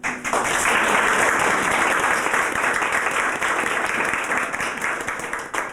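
Audience applauding: a burst of steady clapping that starts suddenly and thins out into scattered claps near the end.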